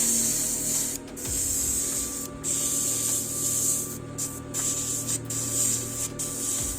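Airbrush spraying paint: a steady, high-pitched hiss of air, cut off briefly several times as the trigger is released and pressed again.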